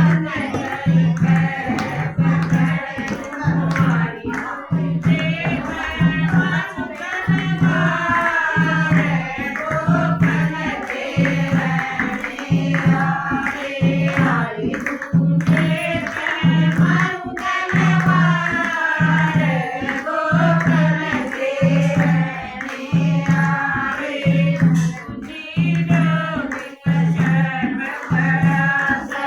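Devotional bhajan singing by a group of voices over a steady low drum beat, with tambourine.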